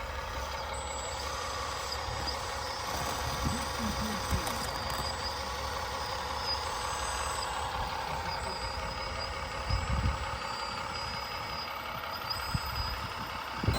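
Radio-controlled model truck running, with short high beeps from a reversing beeper and a few low thumps.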